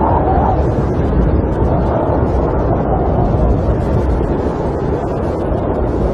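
Snowstorm wind blowing against a camper: a steady, loud, deep rushing rumble with no breaks, with a faint moaning tone in the first half-second.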